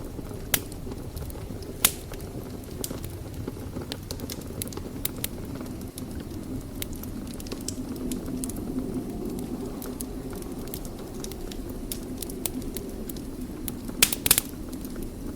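Wood fire burning in a fireplace: a steady low rumble of flames with scattered crackles and pops, the loudest cluster of pops about fourteen seconds in.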